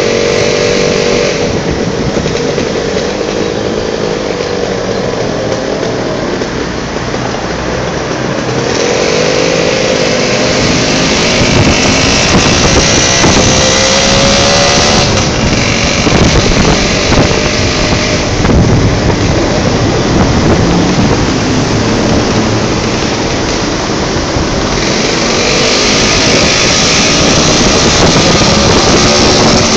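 Motorcycle engine running during a ride, its pitch rising and falling as it speeds up and slows, under a loud, steady rushing noise.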